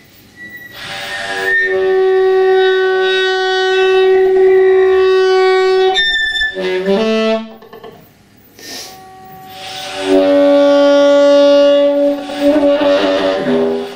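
Long held musical notes with a wind-instrument sound: one steady note from about a second in to six seconds, a quick run of sliding pitches, then a lower steady note from about ten seconds in until just before the end.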